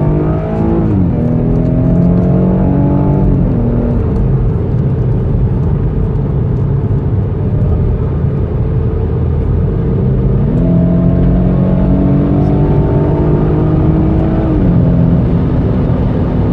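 Car engine heard from inside the cabin under acceleration on track. Its note falls back about a second in and again about three seconds in, gives way to a steady rush of road and wind noise, then climbs again from about ten seconds and drops back near the end.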